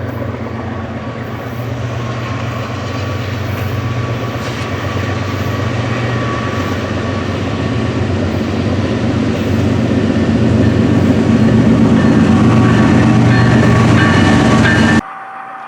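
Train passing close by: a steady low engine drone with wheel and rail noise, growing steadily louder, then cutting off abruptly near the end.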